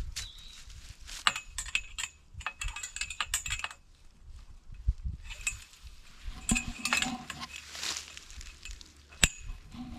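Wire fence mesh clinking and rattling against steel pipe as it is fitted onto the pipe. The sound is a run of metal clicks and jingles in two bursts, with one sharp clink near the end.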